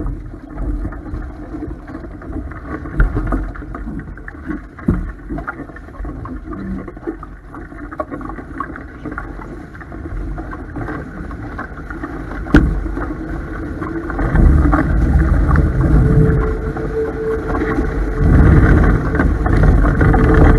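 Strong wind buffeting the microphone and water rushing along the hulls of a Topaz 16CX sailing catamaran sailing fast in high wind, with scattered knocks and one sharp knock a little past halfway. It grows louder from about two-thirds in.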